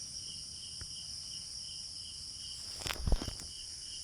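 Steady chorus of insects buzzing at several high pitches, with a short cluster of knocks and thumps about three seconds in.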